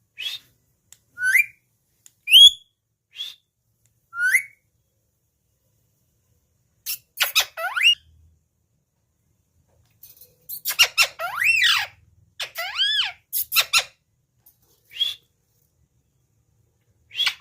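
Pet parrot calling: five short, high, rising whistled chirps over the first few seconds, then after a pause, bursts of harsher squawks and arching, pitched calls.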